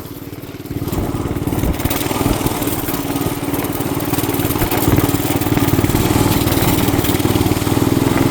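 Small motorbike engine running under throttle in the snow, picking up about a second in and climbing slightly in pitch near the end as the bike gains speed, with wind noise on the microphone.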